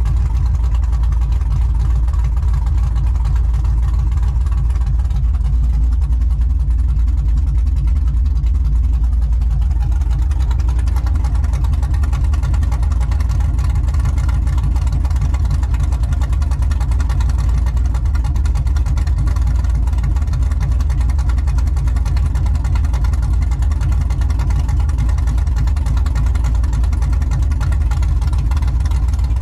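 Cammed 5.3-litre LM7 V8 of a 2000 Chevrolet Silverado, with a TSP 224R cam and long-tube headers, idling steadily with no revving.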